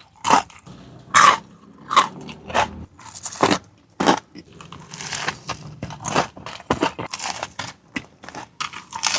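Close-miked biting and chewing of a burger with crispy fried chicken in it: loud, irregular crunches about once or twice a second between quieter chewing.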